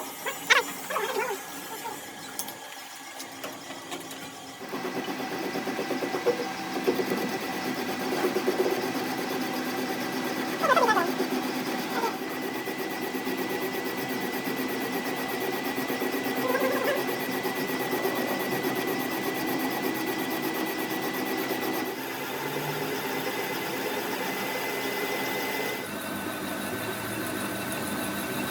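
A motor-driven workshop machine running steadily with a whirring hum and a thin high whine, starting about five seconds in, with short bits of voices over it.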